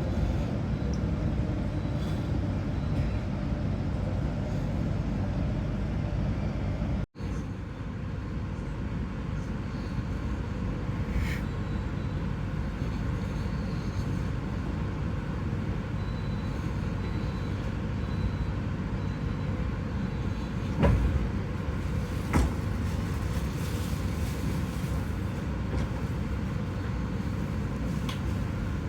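Steady low rumble of a passenger train running on the rails, heard from inside the carriage. It cuts out for an instant about a quarter of the way in. Two short knocks come about a second and a half apart, some two-thirds of the way through.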